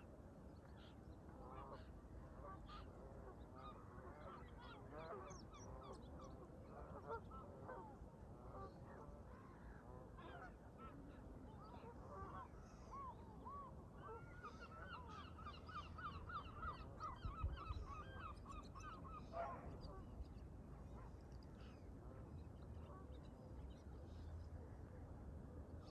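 A flock of Canada geese honking at a distance, with many overlapping calls and a quick run of honks past the middle. Low wind rumble sits underneath.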